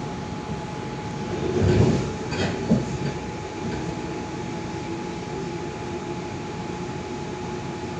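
Steady running noise inside a moving Tangara electric train, wheels rolling on the track under a thin steady whine. A louder rumble swells up about two seconds in, followed by a couple of short knocks from the wheels.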